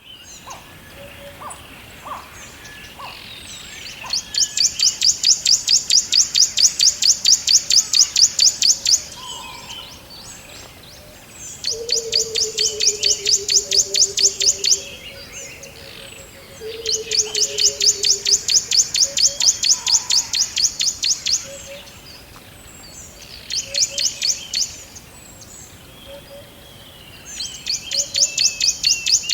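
Forest wildlife ambience: a rapid, high-pitched pulsing trill, several pulses a second, comes in bouts of a few seconds, five times over, with softer chirps between bouts and two low falling whistles near the middle.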